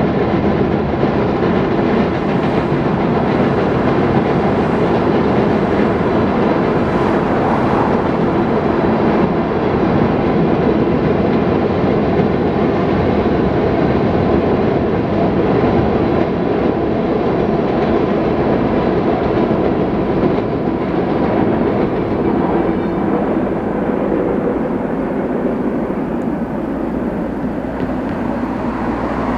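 Freight train of tank cars rolling across a steel truss bridge: a steady rumble of wheels on rail with clickety-clack, easing off a little near the end.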